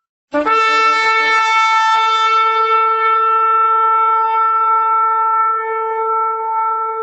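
A shofar (ram's-horn trumpet) blown in one long held blast. It starts abruptly with a bright, raspy attack, then settles into a steady, mellower tone.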